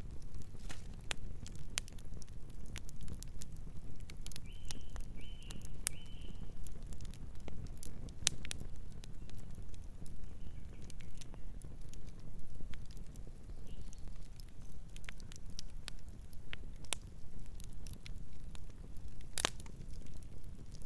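Wood fire burning with a low steady rumble and frequent sharp crackles and pops, one especially loud crack near the end. A few seconds in, three short high chirps, a distant bird.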